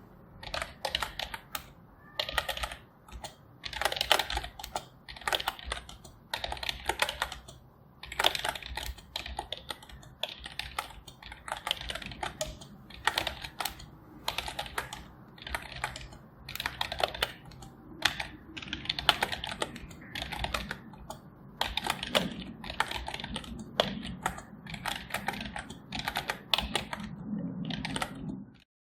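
Computer keyboard being typed on: quick runs of key clicks in bursts of a second or two, with short pauses between them.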